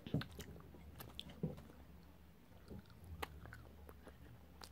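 Faint chewing of chewy bonbon candy close to the microphone, with a few short mouth clicks.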